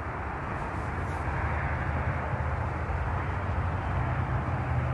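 Steady outdoor background noise: a continuous low rumble with an even hiss above it and no distinct events.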